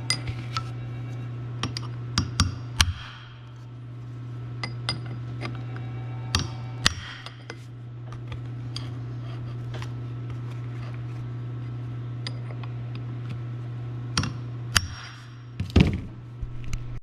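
Scattered metallic clinks and taps of hand tools and parts being handled, over a steady low hum.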